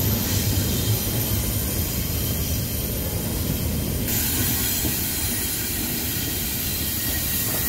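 Double-stack container freight train rolling by on a tight mountain curve: a steady rumble of wheels and cars on the rails.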